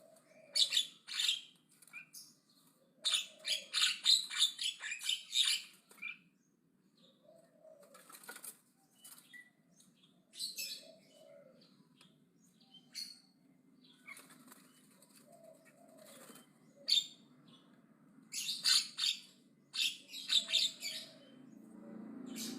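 Javan myna chattering loudly in groups of short, scratchy calls, with quiet gaps between the groups.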